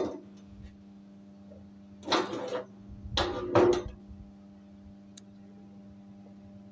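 Slag being cleaned off a steel fillet weld: two short bursts of metal scraping and tapping, about two seconds and three seconds in, over a steady low hum.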